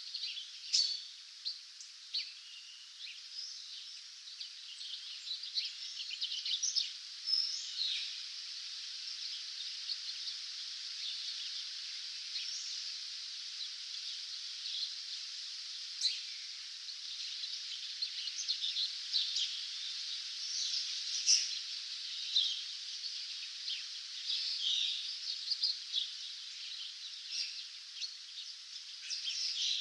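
Dawn chorus: many songbirds singing at once, with short chirps and quick trills over a steady high hiss of more distant birdsong.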